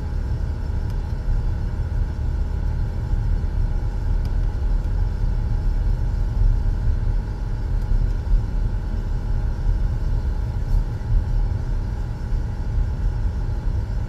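Car driving slowly: steady low engine and road rumble.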